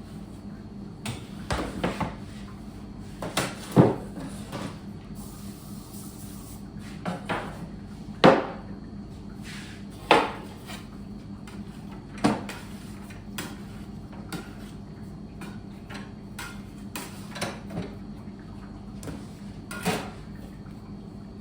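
Bakery kitchen work: irregular knocks and clatters of utensils and trays being handled and set down on a work surface, about a dozen in all, over a steady low hum.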